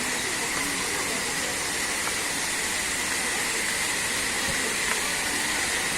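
Waterfall rushing: a steady, even wash of falling water, with a thin steady high tone underneath.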